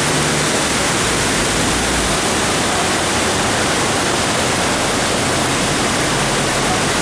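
Waterfall rushing: a loud, steady roar of falling water with no letup.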